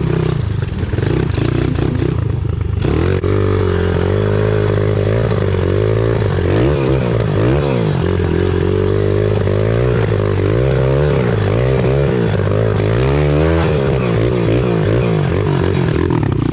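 Pit bike's small single-cylinder engine being ridden, its pitch rising and falling as the throttle is blipped over and over. It runs lower and steadier at first, then about three seconds in it picks up and keeps revving up and down.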